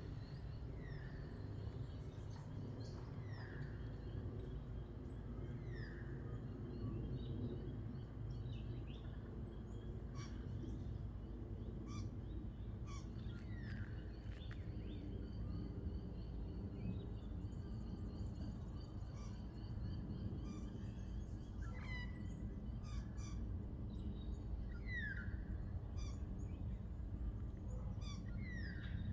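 Scattered bird calls, short downward-sliding chirps every few seconds with fainter higher calls, over a steady low background rumble.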